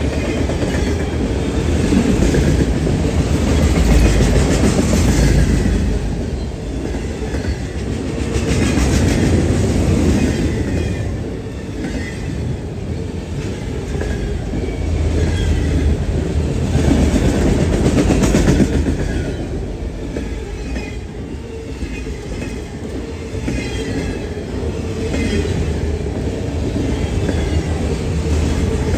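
Freight train of enclosed autorack cars rolling past at close range: a steady rumble of steel wheels on rail with clickety-clack over the rail joints, swelling and easing every few seconds. Short high wheel squeaks come and go throughout.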